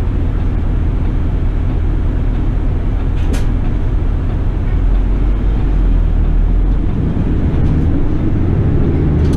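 City bus engine and road noise heard from inside the cabin: a steady low rumble, with one sharp click a little past a third of the way through and a faint rising tone near the end as the bus picks up speed.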